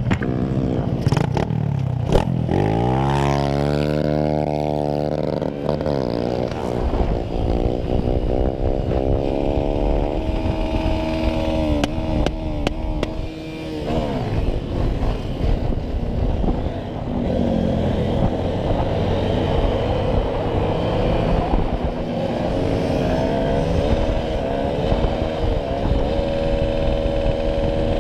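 Motorcycle engine revving and running under way, its pitch climbing steeply a couple of seconds in as it accelerates, then rising and falling with the throttle. A few sharp knocks at the start.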